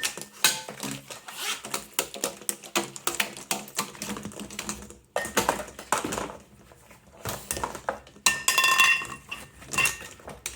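Irregular knocking, clattering and rattling: a Henry vacuum cleaner's pipe being bashed and shaken to free the walnut shells blocking it. There is a quieter stretch partway through and a dense flurry of rattling near the end.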